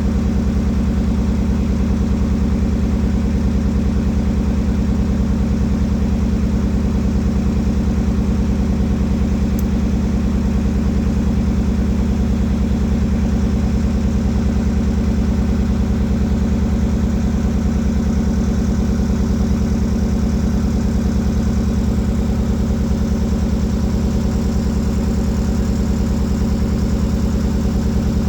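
Boat engine running steadily at an even speed, a constant low drone with no change in pace.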